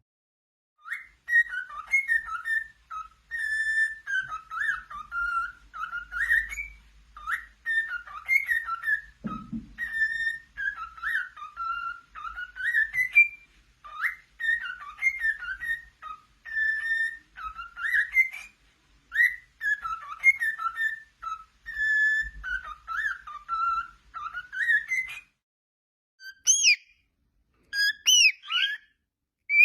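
Cockatiel whistling a tune in short repeated melodic phrases, then a few sharper, higher gliding chirps near the end. A brief low thump about nine seconds in.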